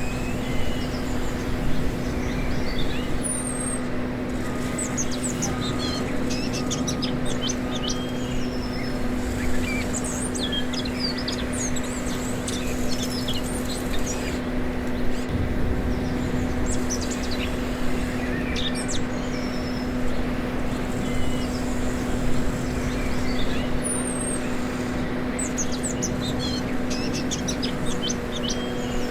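Small birds chirping again and again, with short high calls scattered throughout, over a steady low hum.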